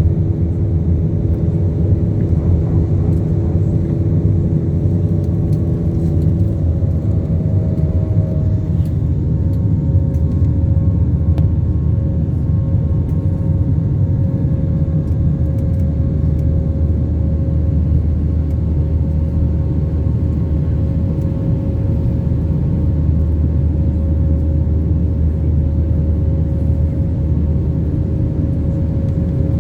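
Aircraft engines running, heard as a steady, loud low rumble with a few steady engine tones that shift slightly upward about seven seconds in.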